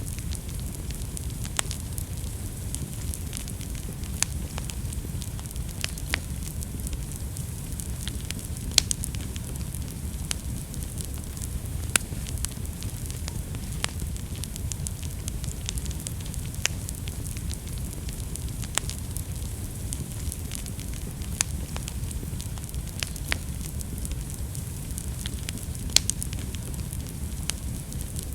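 Wood fire burning in a fireplace: a steady low rumble and hiss with sharp crackles and pops at irregular intervals, a few louder pops standing out.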